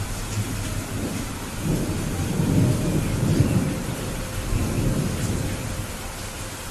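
Steady heavy rain with a low rolling rumble of thunder that swells a second and a half in and fades off toward the end.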